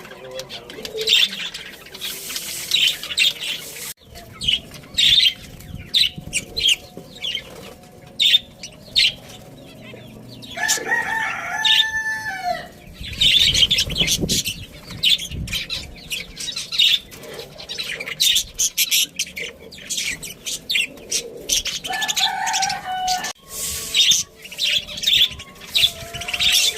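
Small caged birds chirping busily with wing flutters throughout, and a chicken calling: a rooster crows once, about eleven seconds in, a two-second call that holds its pitch and drops at the end, and a shorter hen-like call comes a little after twenty seconds.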